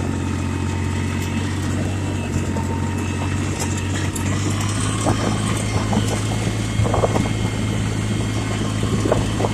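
Yanmar compact tractor's diesel engine running steadily as the tractor drives along, with a few faint brief knocks.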